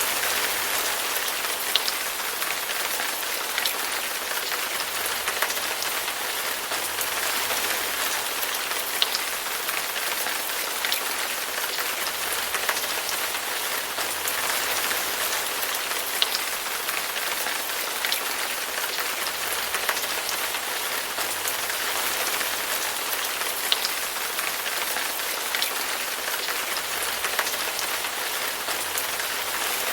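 Steady rain falling, a constant hiss with sharp drops ticking out every second or two.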